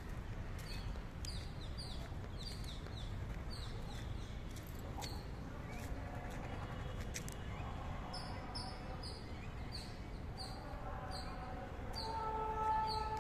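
A small bird calling over and over with short high chirps that fall in pitch, about two a second, over a steady low outdoor rumble. Near the end a long steady droning tone, like a horn or siren, sets in.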